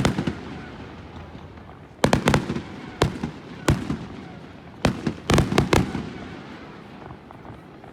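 Fireworks exploding overhead in clusters of sharp bangs: a quick group about two seconds in, two single reports, then another volley around five seconds. Each bang leaves a fading rumble, and the sound dies down near the end.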